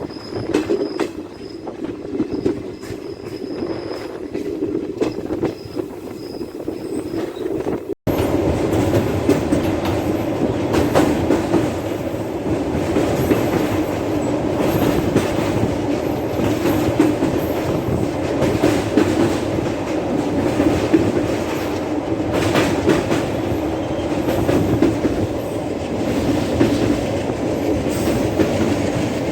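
DEMU passenger train running on the rails: a steady rumble with occasional wheel clicks over the rail joints. There is a cut about eight seconds in, after which the rumble is louder.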